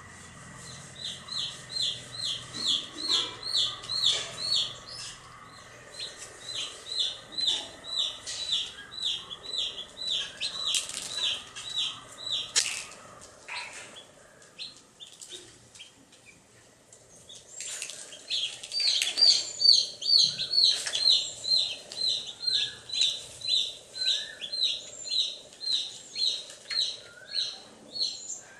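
Baby chicks peeping: quick, high, evenly repeated chirps, about three a second, in two long runs with a quieter pause of a few seconds in the middle, with fainter chirps from other chicks over them.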